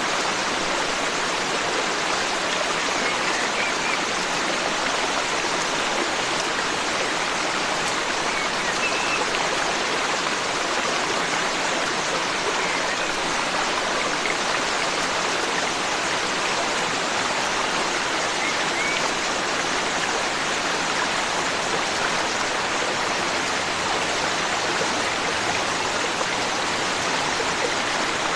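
Forest stream flowing: a steady sound of running water, with a few faint, brief bird chirps now and then.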